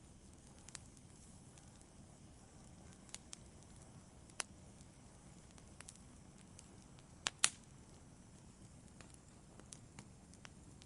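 Wood fire in a fireplace crackling: a low, steady hiss of burning with scattered sharp pops and snaps, the loudest a close pair of pops about two-thirds of the way through.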